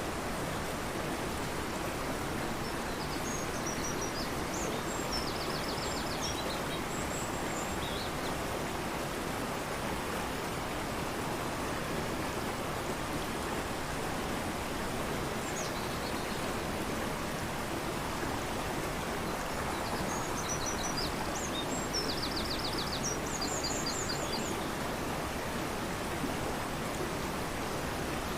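Fast-flowing, turbulent river rushing steadily. Over it, a songbird sings two short bursts of high chirps and rapid trills, the first a few seconds in and the second about twenty seconds in.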